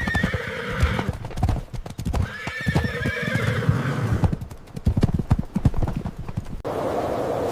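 Hooves knocking on hard ground, with two wavering, pitched animal cries: one at the start and one about two and a half seconds in, each about a second long. Near the end the sound changes to a steady hiss.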